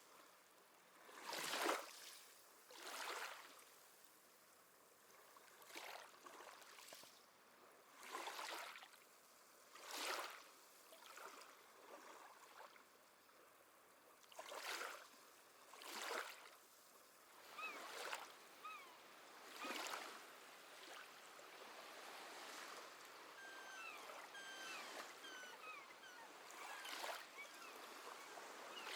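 Small sea waves washing in quietly, a soft surge every one to two seconds, with faint seabird calls chirping from a little past the middle onward.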